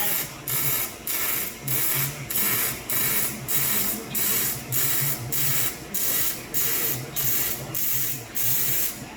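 A shop power tool working on a car's exhaust, hissing in even, repeated short bursts of about two a second that stop abruptly at the end.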